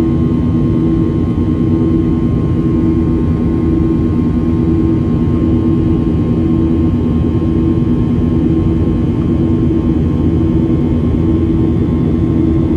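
Cabin noise of a Boeing 737-800 in flight, with its CFM56-7B jet engines giving a steady loud drone. A low hum swells and fades about every two seconds.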